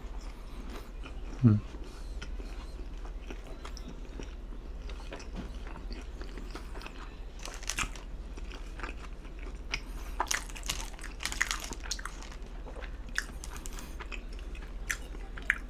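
Close-miked chewing of a mouthful of pizza, with wet mouth smacks and clicks throughout. A short hummed 'mm' about a second and a half in is the loudest sound.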